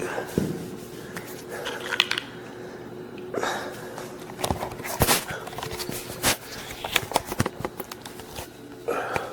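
Scattered clicks, taps and rustling of objects being handled, over a steady low hum.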